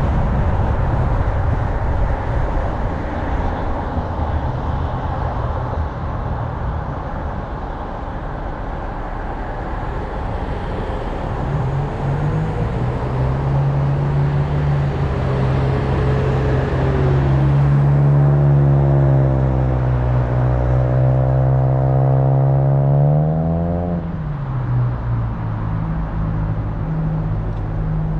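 Car driving on a road: steady tyre and road noise. From about halfway through, a vehicle engine hum grows louder and rises slowly in pitch, then drops away a few seconds before the end.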